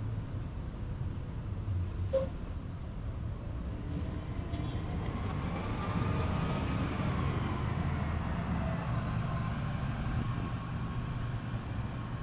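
A motor vehicle passing in the street, its engine and tyre noise swelling and its pitch rising and then falling over a few seconds, over a steady low rumble of traffic. A short click sounds about two seconds in.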